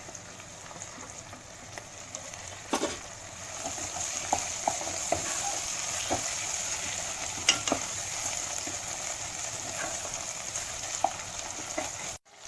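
Chopped tomatoes frying in hot sesame oil in a pan, a steady sizzle with a spoon stirring and tapping against the pan now and then. The sizzle grows louder about three and a half seconds in, and the sound cuts off abruptly just before the end.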